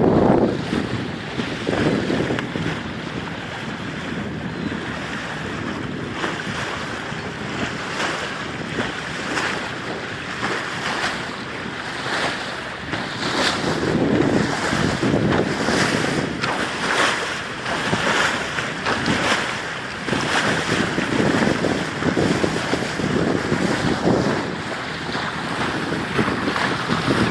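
Wind buffeting the microphone in uneven gusts, over water washing and splashing around a boat under way.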